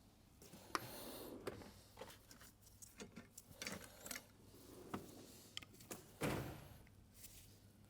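Irregular light clicks and knocks of small metal parts and tools being handled while an oil pump is dismantled, with a louder knock about six seconds in.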